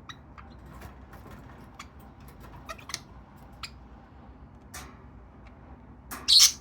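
Budgerigars moving about, making scattered light clicks and taps, with one short loud burst of sound near the end.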